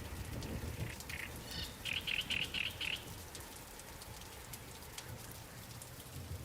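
Light rain falling on water, with a songbird calling over it: a short call about a second in, then a quick run of five chirps.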